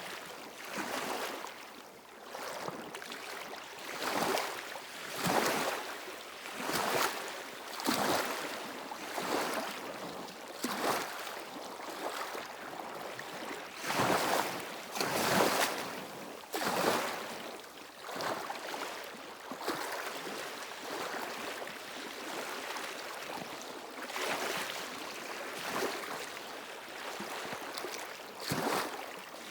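Small waves lapping on a stony shore: a short splash and wash of water every second or two, with little deep rumble. The surges are a little louder for a few seconds about halfway through.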